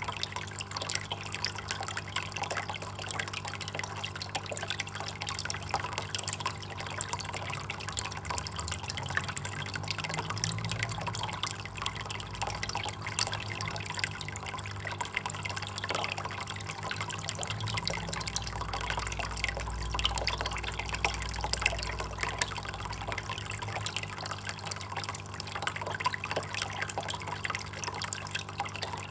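Water trickling and dripping: a steady, dense patter of small splashes.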